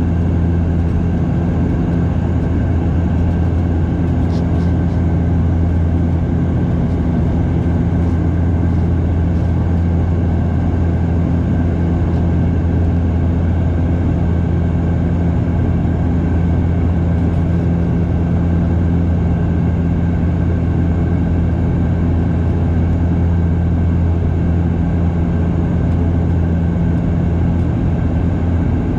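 Cabin drone of a Bombardier DHC8-Q400 turboprop in flight: a steady low propeller hum over the rush of engine and airflow noise, holding even throughout.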